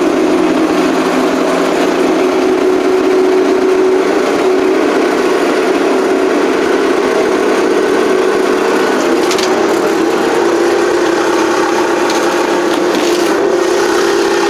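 Engine of a 1980 Case 480D backhoe running steadily soon after a cold start at about 0°F, its block heater plugged in, with a steady whine held over the engine note.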